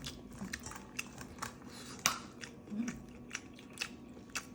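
Someone eating crawfish: irregular cracking and crunching of the shells and chewing, sharp clicks a few times a second, the loudest about two seconds in.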